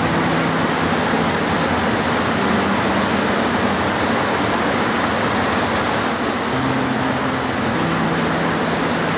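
Steady, heavy rain making an even hiss. A faint low hum fades in and out underneath it.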